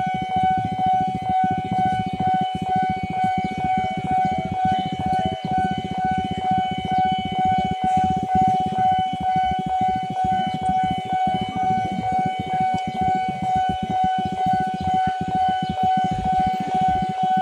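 Railway level-crossing warning alarm sounding a steady, unbroken electronic tone, with a rough low rumble beneath it.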